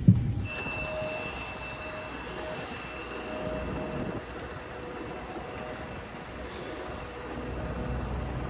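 Steady vehicle hum with a thin, high, steady whine. A short burst of air hiss comes about six and a half seconds in.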